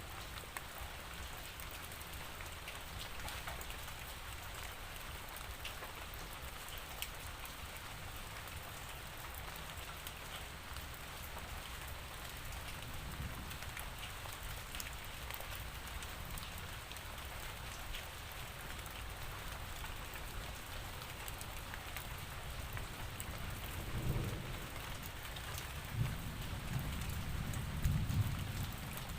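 Steady rain falling, with fine scattered ticks of individual drops. Low rumbles of thunder come in over the last few seconds.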